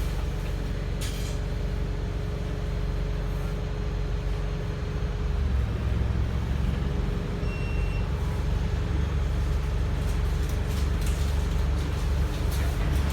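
Wright StreetLite single-deck bus engine running under way, a steady low drone with a faint constant whine. The drone grows louder and heavier about five and a half seconds in, as the engine works harder.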